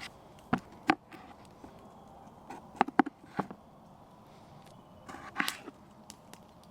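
A few sharp knocks and taps, two near the start and three about three seconds in, then a brief rustling scrape about five seconds in, from food and utensils being handled while a foil meal is assembled.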